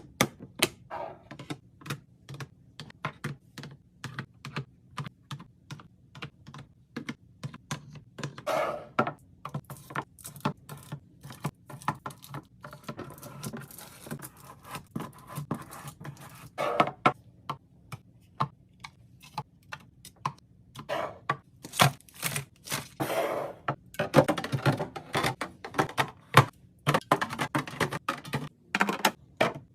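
Containers and packages being handled while restocking a fridge: a steady run of sharp clicks and taps as items are set down and lids snapped. A few longer stretches of rustling or scraping come about a third of the way in, at the middle and late on.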